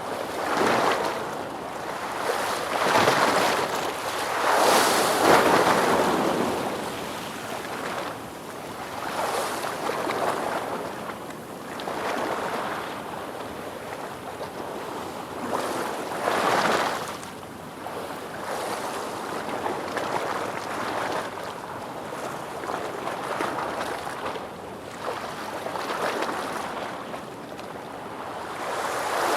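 Ocean waves breaking and washing in, a rushing hiss that swells and subsides every few seconds, the strongest surges about 3 to 6 seconds in and again near the middle.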